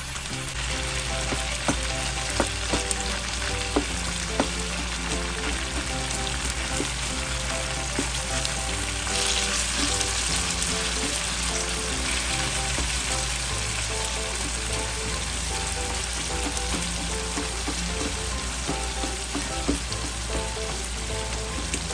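Chicken and tomatoes sizzling in hot oil in a karahi while a slotted spatula stirs and crushes the tomatoes, with scattered clicks and scrapes of the spatula against the pan. The sizzle swells for a few seconds about nine seconds in.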